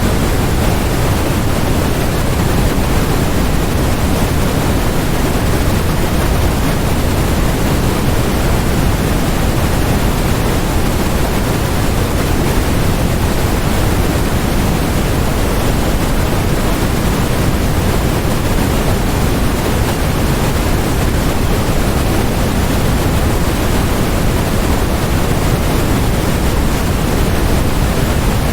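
Steady generated noise from a white-noise track, even and unchanging, fuller in the low end than in the highs.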